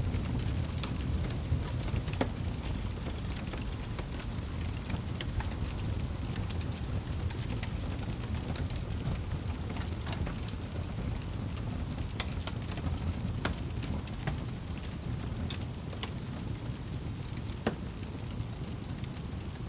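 Wood fire burning in a fireplace: a steady low rumble of flames with scattered sharp crackles and pops from the firewood at irregular intervals.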